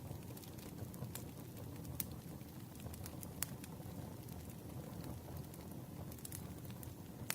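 Campfire burning with a steady low rumble and scattered sharp crackles and pops from the wood.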